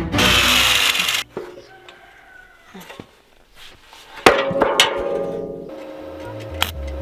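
Metalwork on the hay bale fork: about a second of harsh scraping or grinding noise, then scattered small knocks and, about four seconds in, a loud ringing metal clang. Background music comes in near the end.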